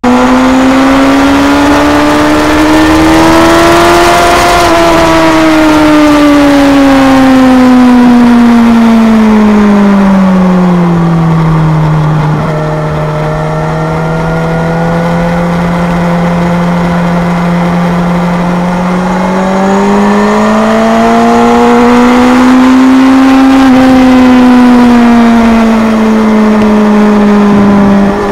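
Kawasaki Z1000's inline-four engine heard onboard at speed, with wind rush: the revs climb for about four seconds, sag slowly for the next eight, hold low for a while, then climb again about two-thirds through and ease off near the end.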